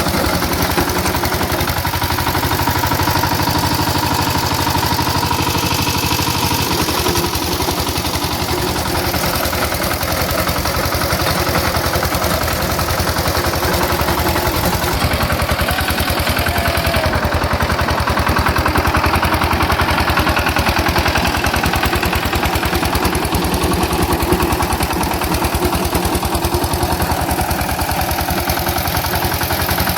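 Maha Shakti power tiller's single-cylinder diesel engine running steadily, with a fast, even clatter of firing strokes.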